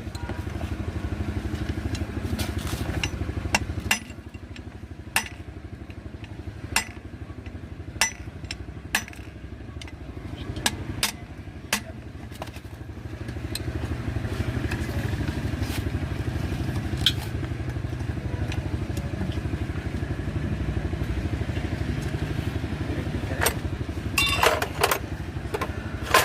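Motorcycle engine running steadily, getting louder about halfway through and staying there, with scattered sharp metallic clinks over it.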